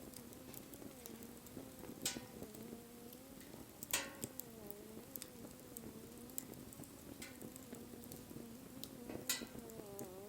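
Wood fire crackling, with small scattered ticks and three sharper pops about two, four and nine seconds in, over a faint, low wavering whistle.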